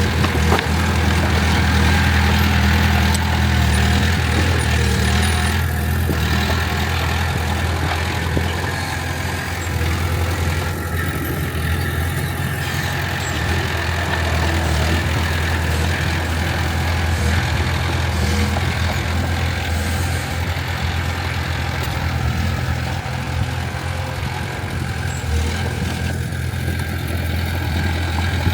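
Heavy diesel engine running steadily, a strong low drone that is a little louder in the first few seconds.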